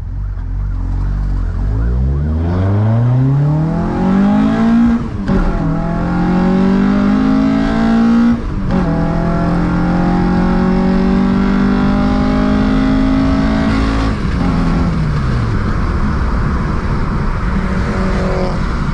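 VW Mk2 Golf's 16-valve four-cylinder engine on individual throttle bodies accelerating hard through the gears. Its note climbs with a break at each gear change, about five and eight and a half seconds in. About fourteen seconds in the note falls away and leaves a steady rushing noise as the engine fails catastrophically.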